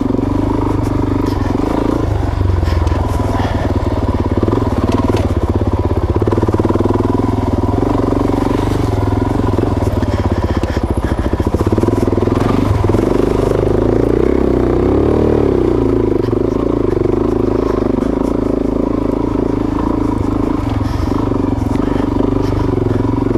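Suzuki DRZ400S single-cylinder four-stroke engine working hard up a steep, rough trail climb, its revs rising and falling as the clutch is slipped to keep it pulling. Short knocks from the bike over rough ground come through now and then.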